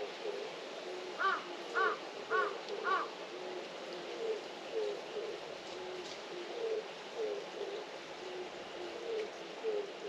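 A dove cooing, its low phrase repeating over and over, while a crow caws four times about half a second apart from about a second in. A steady hiss of rain lies underneath.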